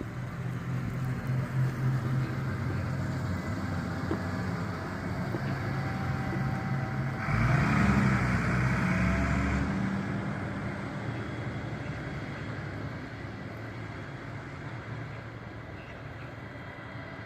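Bus engine running as the bus drives past, loudest about eight seconds in, then fading away.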